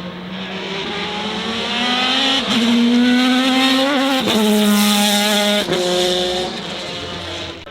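A high-performance car's engine accelerating hard up through the gears. Its pitch climbs and drops three times at quick upshifts, loudest in the middle as it passes, then easing off.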